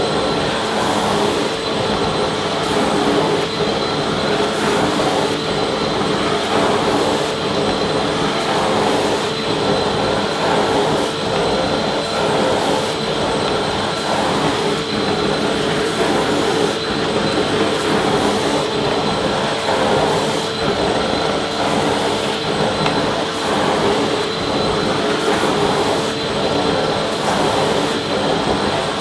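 Vacuum cleaner running continuously: a steady motor hum and rush of air with a constant high whine on top.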